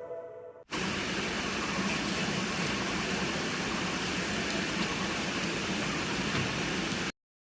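Soft background music fading out, then a steady hiss of background noise that starts abruptly under a second in and cuts off suddenly near the end.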